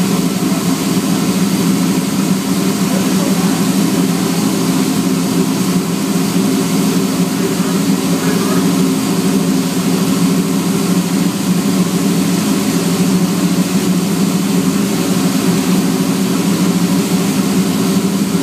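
A 1985 IROC Camaro's fuel-injected 385-cubic-inch V8 idling steadily.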